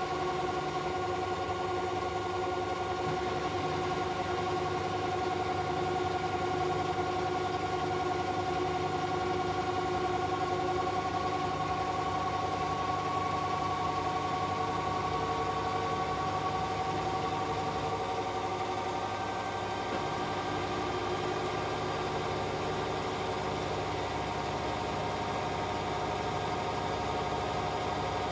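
Hoover H-Wash 600 integrated washing machine spinning at speed on its spin-and-drain cycle: a steady motor whine with a few held tones that drift slightly in pitch, over a low hum.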